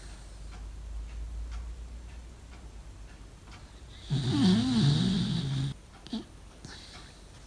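Corgi snoring in its sleep: a low breathing rumble, then, a little past halfway, one loud snore lasting about a second and a half with a wavering pitch, followed by a short faint snort.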